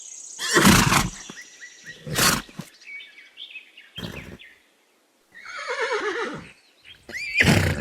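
Horse whinnying: several short harsh bursts, and a little over halfway through a longer neigh falling in pitch. Another burst comes near the end.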